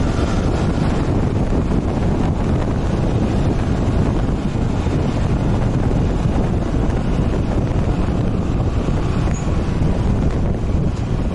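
Wind rushing over the microphone of a moving motorcycle, a steady loud low rumble with no clear engine note.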